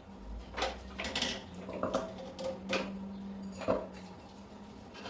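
Metal parts clinking and knocking, about half a dozen irregular sharp clicks, as a motorcycle's rear belt-drive pulley is worked onto the wheel hub over its rubber dampeners.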